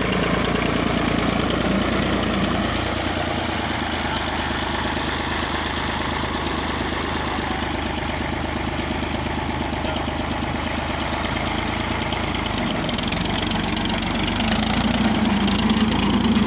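Escort 355 tractor's diesel engine running steadily, getting a little louder near the end.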